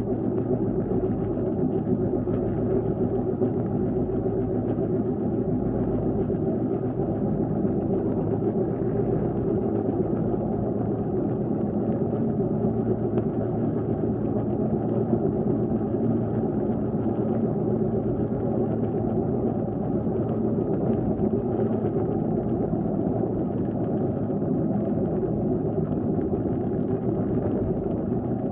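Infiniti G37 driving at steady speed, with a constant low hum over the road noise from a worn wheel bearing.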